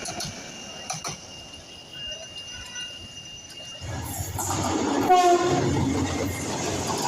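Bangladesh Railway diesel locomotive horn sounding as a train comes by, with the low rumble of the train swelling from about four seconds in; loudest about five seconds in.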